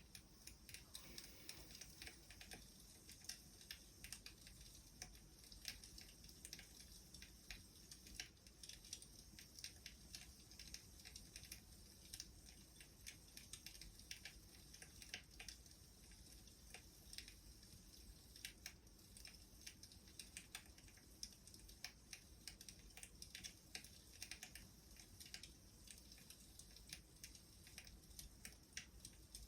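Faint crackling of a wood fire: irregular small pops and snaps over a soft hiss.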